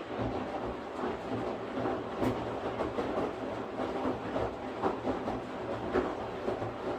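Washing machine running: a steady churning noise with irregular soft knocks from the turning drum.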